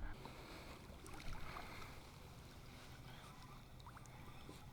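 Faint, steady sound of water against a kayak hull on a lake, with a few light ticks.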